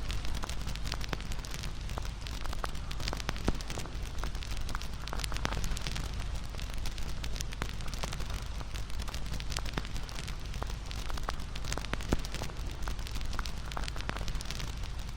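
Wood bonfire crackling, with many scattered sharp pops over a steady low rumble of the flames; two louder pops come about three and a half seconds in and about twelve seconds in.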